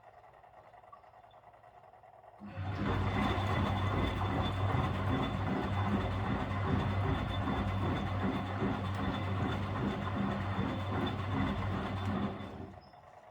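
Miele W761 washing machine turning its empty drum in a wash cycle: a motor hum with a high whine starts about two and a half seconds in, runs about ten seconds, then stops.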